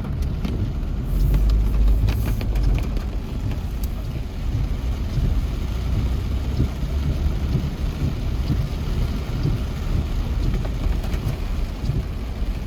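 Steady low rumble of street and wind noise with light rain falling, a little louder in the first few seconds.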